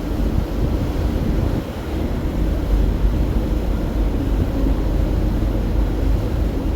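Steady low drone of a high-speed car ferry's engines underway, mixed with wind noise on the microphone.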